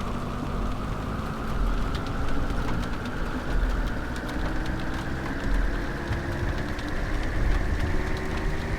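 A vehicle engine running steadily, its pitch slowly rising as it gains speed, with scattered faint clicks over it.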